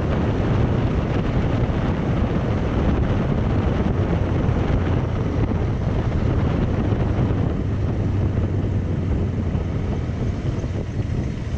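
Steady wind buffeting on the microphone with a low, even rumble from riding along on a bike.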